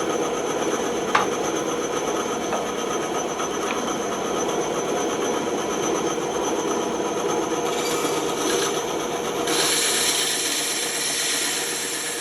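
Bandsaw running with a steady hum and the hiss of its blade cutting wood, a brief click about a second in, and the cutting hiss growing louder for the last few seconds.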